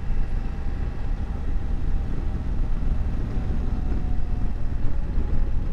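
Wind rumbling over the rider's microphone, with the steady drone of a BMW F750GS parallel-twin engine underneath, cruising at an even speed.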